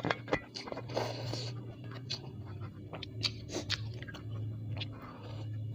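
Close-up mouth sounds of someone chewing bakso meatballs and bihun rice vermicelli: wet irregular smacks and clicks, over a low steady hum, with a few sharper clicks at the very start.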